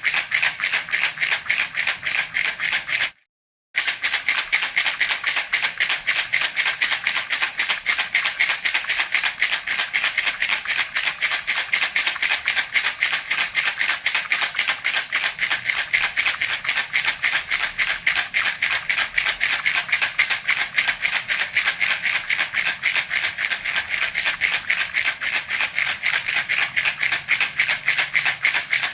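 Handheld baby rattle (jhunjhuna) shaken in a fast, even rhythm, a steady rattling, broken once by a half-second gap about three seconds in.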